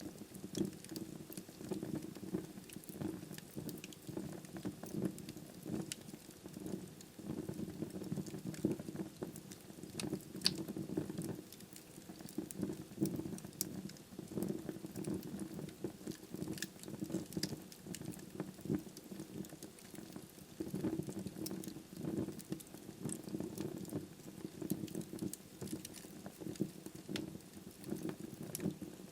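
Wood fire burning in a fireplace: a steady low rush of flame with frequent small, irregular crackles and pops from the burning logs.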